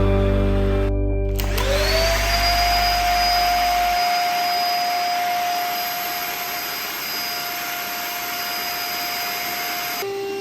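Central vacuum system's motor spinning up with a rising whine about a second and a half in, then running steadily with a constant whine over a loud rush of air; the sound cuts off abruptly near the end. Background music fades out in the first few seconds.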